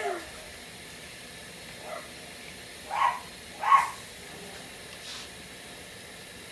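A dog giving two short barks about three seconds in, with a weaker one a second earlier, over a faint steady sizzle from the pan.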